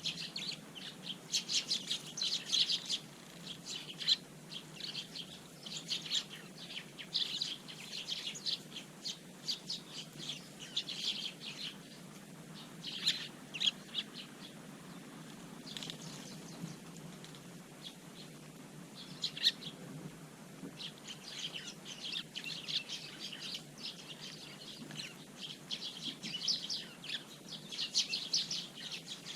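A flock of Eurasian tree sparrows chirping: a busy run of short, high calls that thins out for a few seconds in the middle.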